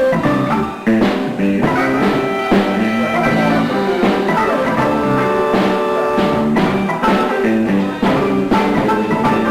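Live band playing an instrumental funk and soul groove, with electric guitar over a drum kit keeping a steady beat.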